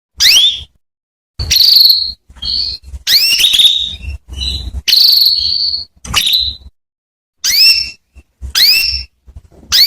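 Female canary calling, about ten short high calls in a row with brief silent gaps between: some sweep upward, others hold on one pitch. This is the call used to get male canaries singing.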